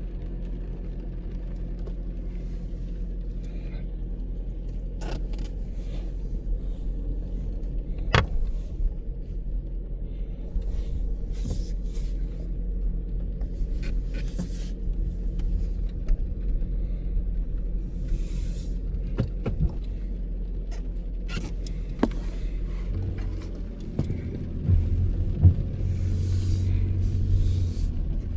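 Car engine and road noise heard from inside the cabin while driving on a rainy day, a steady low drone. Scattered clicks and a few brief hissing swells, the longest near the end, sit over it.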